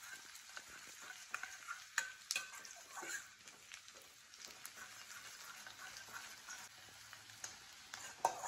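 Chopped small onions and curry leaves sizzling in hot oil in a stainless steel kadai while a steel spoon stirs them, scraping and clicking against the pan every so often as the onions are sautéed soft.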